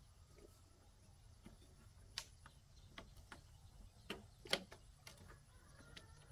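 Scattered light clicks and taps at an uneven pace, with a few louder knocks about two seconds in and again around four and a half seconds in, over a faint low rumble.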